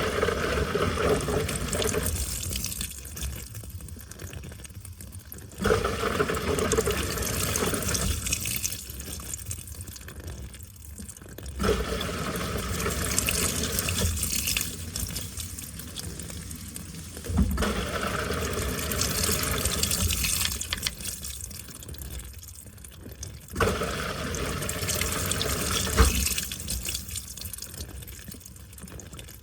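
Washing machine running, water splashing and sloshing in the drum in surges that start suddenly about every six seconds, each lasting a few seconds before easing off.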